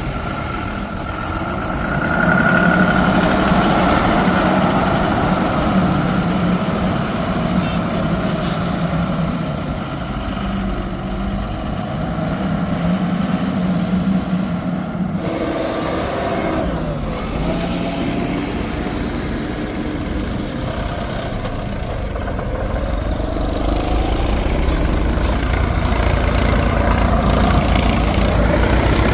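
Heavy diesel engine of a working vehicle running, its pitch rising and falling under throttle. The sound changes abruptly about halfway through.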